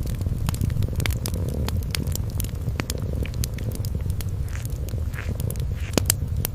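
A kitten's low, steady purr with a wood fire crackling over it in scattered sharp pops.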